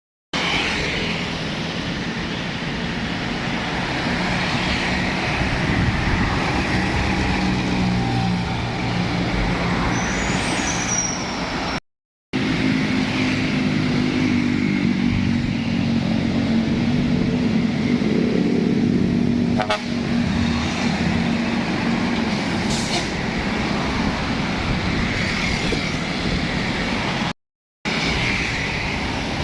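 Heavy trucks' diesel engines running as they pass in road traffic, with a brief high falling squeal about ten seconds in. The sound cuts out abruptly twice, about twelve and twenty-seven seconds in.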